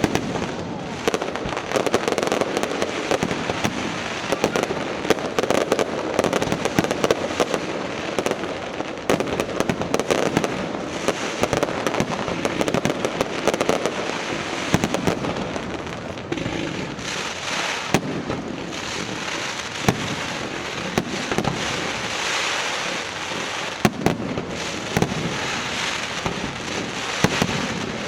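Fireworks display going off in a dense, unbroken run of sharp bangs and crackling.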